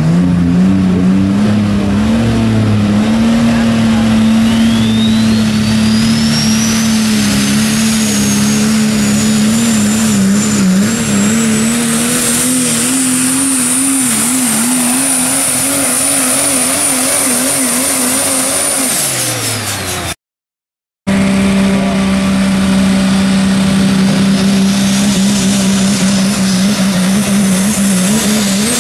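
Super stock diesel pulling truck at full throttle down the track, its engine running hard at steady high revs with a high turbocharger whine that climbs and then holds. The sound dies away just after two-thirds of the way through. After a break, another diesel puller runs at high revs, its whine rising again near the end.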